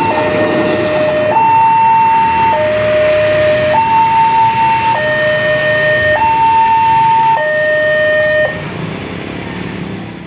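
Railway level-crossing warning alarm sounding a two-tone high-low signal, each tone held a little over a second in steady alternation. It stops near the end, leaving quieter background noise.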